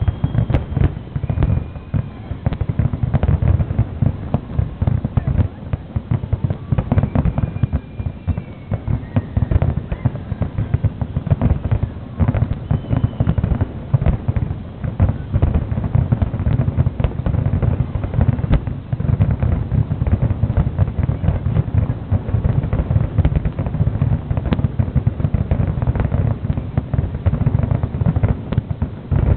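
Fireworks going off in a dense, almost unbroken string of bangs, several a second, with a few faint whistles among them.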